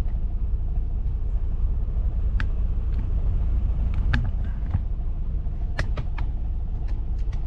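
Semi truck's diesel engine idling, a steady low rumble heard from inside the cab, with a few scattered sharp clicks.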